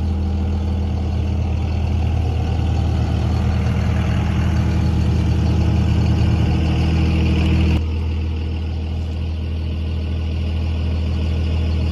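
Cummins diesel truck engine running steadily under way while towing a loaded trailer, a low drone. It drops in level abruptly about eight seconds in.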